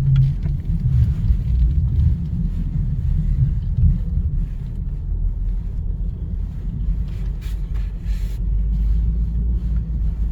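Low, steady rumble of a car or van engine with tyres working through deep snow, with a brief hiss about eight seconds in.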